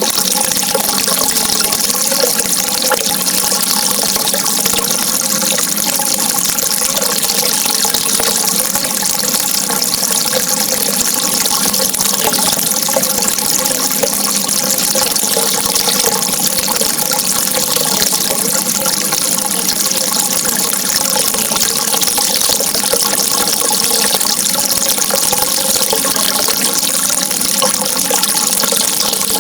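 Running water, a steady unbroken rush with a faint wavering gurgle.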